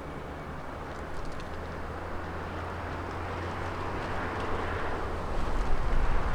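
Boeing 777 jet engines on landing approach, a steady rushing rumble that grows gradually louder as the airliner comes nearer. Gusty wind buffets the microphone toward the end.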